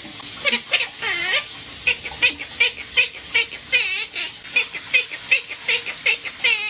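Parrot calling in a rapid, even series of short squeaky chirps, about two and a half a second, a few of them arching up and down in pitch.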